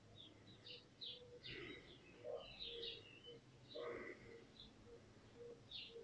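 Faint birdsong: scattered short chirps and twitters, with a run of brief lower notes, over a low steady hum.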